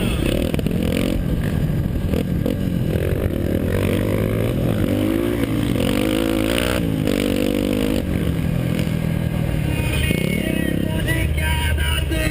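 Motocross bike engine revving hard, its pitch climbing and dropping again every second or two as the rider works the throttle and gears, over a steady low rumble.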